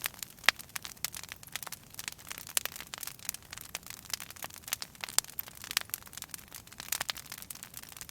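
Wood fire crackling in a fireplace: a steady run of irregular sharp pops and snaps.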